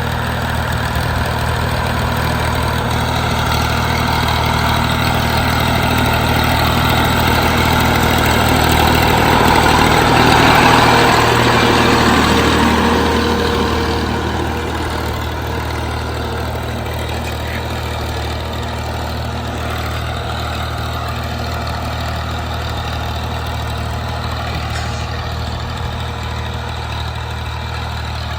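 Tractor engine running steadily, growing louder around ten seconds in and easing back a few seconds later.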